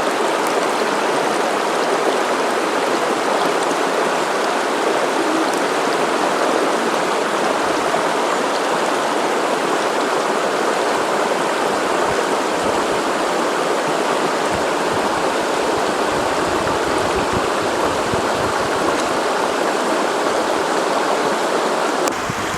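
River water rushing over rocks, a steady, even rush.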